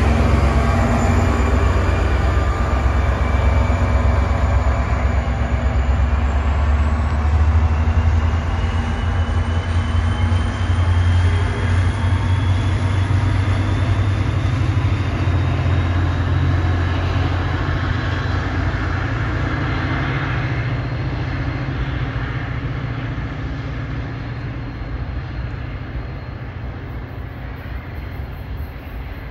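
NJ Transit GP40PH-2B diesel locomotive pushing a departing commuter train: a steady low diesel rumble with rail noise from the coaches, fading as the train moves away. A faint whine rises slowly in pitch through the middle.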